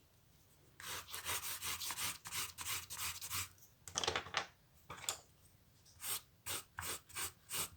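Colouring strokes scratching back and forth on paper as the sky of a drawing is shaded in: a quick rhythmic run of strokes for about three seconds, then a pause and slower, separate strokes.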